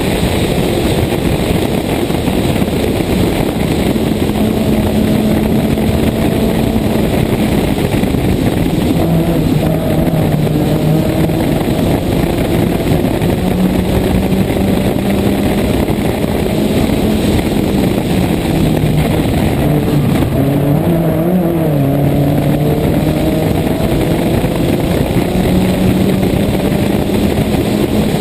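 Toyota Corolla 1.6 rally car's four-cylinder engine driven hard along a stage, its note rising and falling as the car changes speed, with a wobble about twenty seconds in. It is heard from a camera mounted outside on the bonnet, so heavy wind rush on the microphone runs under the engine.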